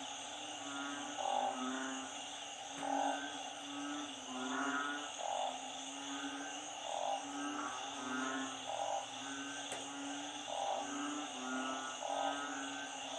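A chorus of frogs calling in flooded ground after a storm: narrow-mouthed frogs (อึ่ง) and small paddy frogs (เขียด). Their low calls repeat every second or two and overlap higher trilled calls, over a steady high chorus of many more callers.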